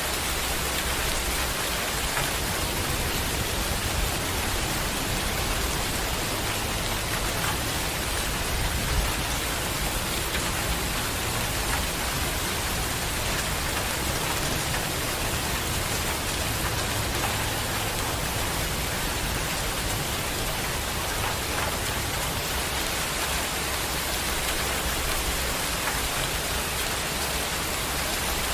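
Heavy rain falling steadily, a dense, even hiss of drops, with one slightly louder tap about nine seconds in.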